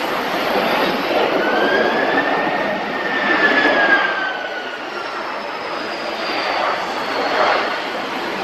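Jet engines of a China Airlines Airbus A330-300 airliner, a steady rushing noise with an engine whine that rises and then falls in pitch as the aircraft goes by.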